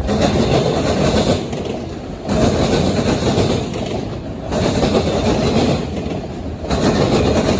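CSX train's cars rolling past, wheels clattering on the rails; the sound swells and eases about every two seconds as the cars go by.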